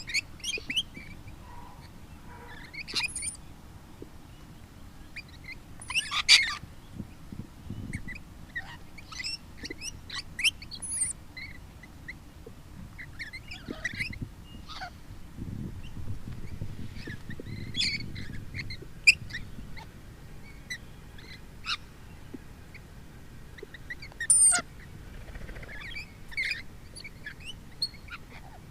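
Lorikeets calling: short, shrill screeches and chirps on and off, with louder bursts about six seconds in and again near the end.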